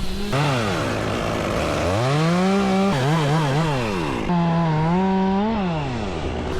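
Chainsaw engine revving up and down several times, with a quick flurry of short throttle blips about halfway through, then dropping back toward idle near the end.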